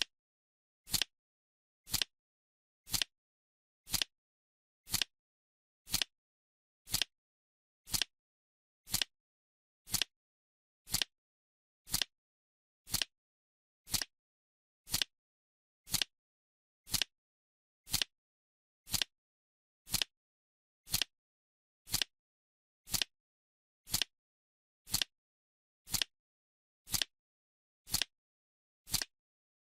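Countdown timer's clock-style ticking: one sharp tick every second, evenly spaced, with silence between ticks.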